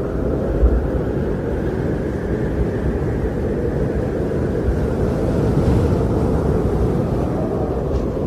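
Wind blowing during a snowfall: a steady, deep rushing noise with small gusts.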